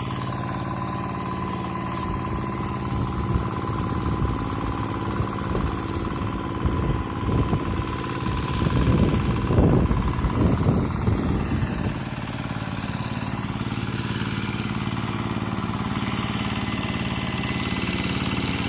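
Rice-paddy tractor's engine running steadily while plowing, with a louder, rougher stretch in the middle that settles back to the even running sound.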